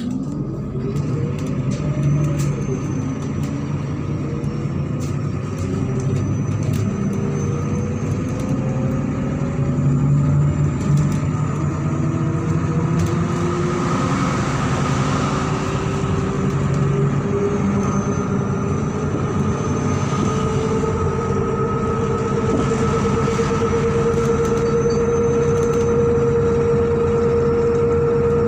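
MAZ-103 city bus heard from inside while under way. The engine hums low and steady. Right at the start a tone rises quickly and then falls back. After that, several whining tones from the drivetrain climb slowly in pitch as the bus gathers speed.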